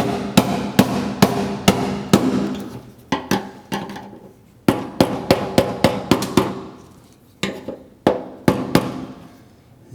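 Hammer strikes driving the fuel pump's metal lock ring around on the fuel tank to tighten it. Sharp, ringing metal-on-metal hits come about two to three a second, in three runs with short pauses between them.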